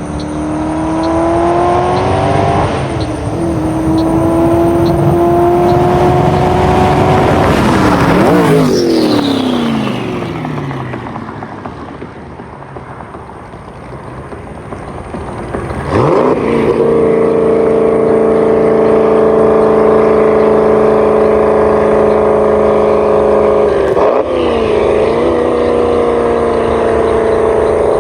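Twin-turbo 4.8 L LS V8 of a Factory Five GTM running hard. It rises in pitch, drops at a gear change about three seconds in, climbs again and then falls away. After a quieter stretch it comes back in sharply about halfway through and holds a steady high pitch, dipping briefly near the end.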